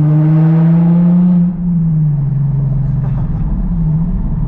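Car engine under way, its note climbing for about a second and a half, then dropping as it changes gear and running on steadily, with a brief rise and fall near the end.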